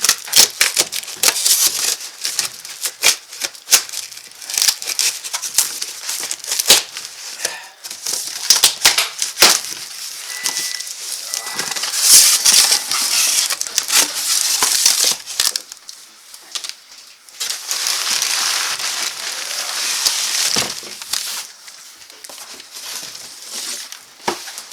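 Box packaging being opened and handled: crinkling and rustling with many sharp clicks and knocks, and longer stretches of rustling, especially around the middle and later on.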